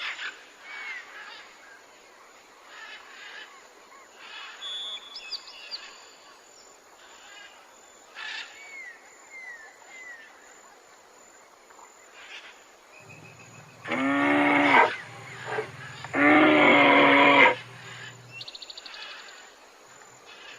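Faint bird chirps and short whistled glides over a quiet outdoor background. About two-thirds of the way through come two loud animal calls, each lasting about a second, over a low hum.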